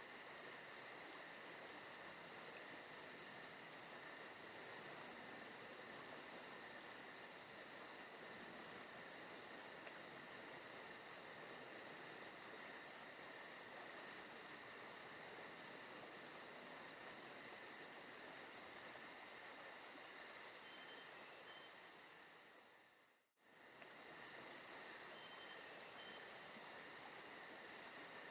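Faint forest ambience of crickets chirring steadily in a continuous chorus with a rapid high pulsing. The sound fades out and back in briefly near the end.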